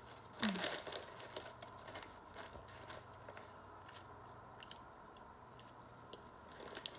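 A person quietly eating a snack: faint chewing with light crinkling of packaging, and a louder rustle about half a second in.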